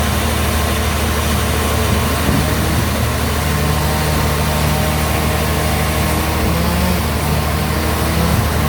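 Band sawmill running steadily with a low, even hum. A higher tone comes in about two seconds in and holds.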